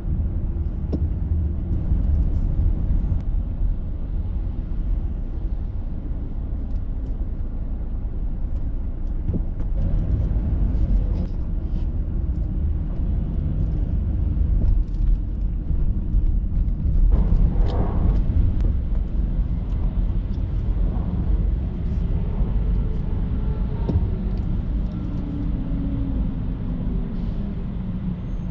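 Street traffic: a steady low rumble of vehicles, with one louder pass or swell about two-thirds of the way through.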